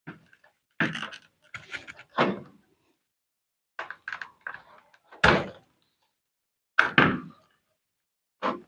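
Irregular knocks and clunks of plastic and metal washing-machine parts being handled and set down during disassembly, about seven or eight separate hits with the loudest around the middle.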